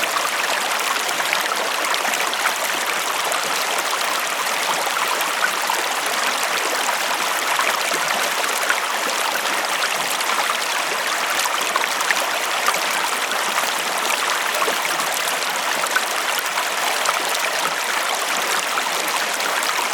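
River water flowing over stones, a steady rushing with small splashes and gurgles throughout.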